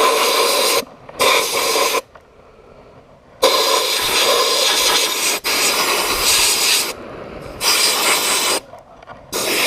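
Compressed-air sandblast gun blasting glass bead media onto an oxidized Kawasaki KZ400 engine, a loud hiss in about five bursts as the trigger is pulled and released. The longest pause is a little after a second and a half in, and the longest burst runs for about three seconds in the middle.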